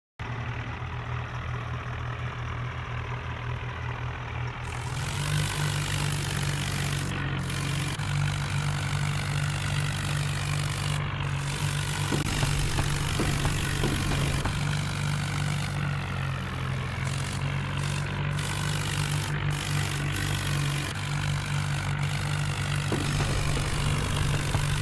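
Diesel tractor engines running hard and steady under heavy pulling load. About five seconds in, they get louder, with a broad hiss joining the engine note.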